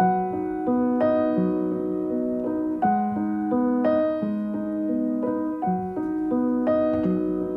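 Soft piano background music: slow, sustained notes and chords that change about once a second.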